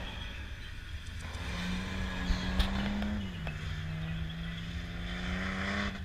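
Car engine pulling hard, its pitch dropping suddenly about three seconds in as it shifts up a gear, then climbing again as it accelerates. Two short clicks come a little past two seconds in.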